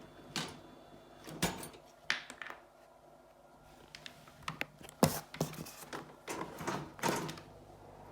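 A string of sharp, irregular clicks and knocks, like plastic parts of a kitchen ventilation fan and its filter being handled, over a faint steady hum.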